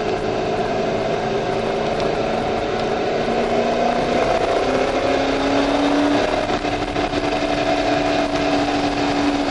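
Chevrolet C5 Corvette Z06's LS6 V8 running under load at track speed, heard from inside the cabin over road and wind noise. Its steady note steps up in pitch about halfway through and then holds.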